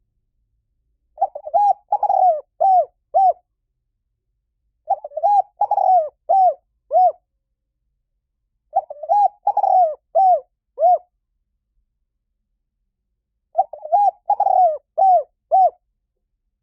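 Spotted dove cooing: four calls, each a quick run of low coos ending in a few short arched notes. The calls come about every four seconds, with silence between them.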